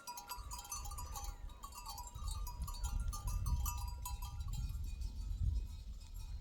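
A flock of sheep and goats bleating, many short calls in the first half, over a steady low rumble.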